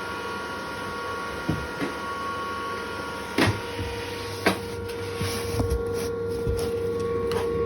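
ASIC cryptocurrency miners' cooling fans running steadily inside a soundproof noise box: an even whir with a steady hum-like tone. A few short knocks sound over it, the loudest about three and a half and four and a half seconds in.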